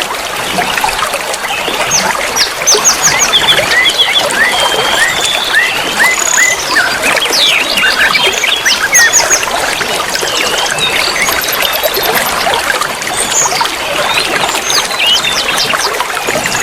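A dense chorus of many small songbirds chirping, trilling and whistling at once, the short calls overlapping without pause, over a steady background of trickling water.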